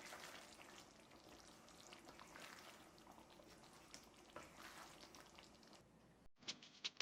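Food frying in hot oil in a pan, a steady sizzle with small crackles. After a brief break about six seconds in, the crackling comes back louder and sharper.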